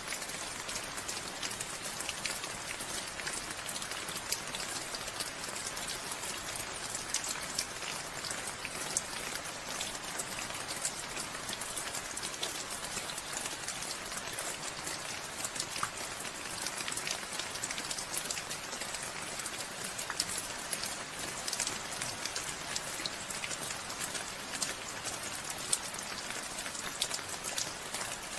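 Steady rain falling, a dense even hiss with many small distinct drop ticks on a surface.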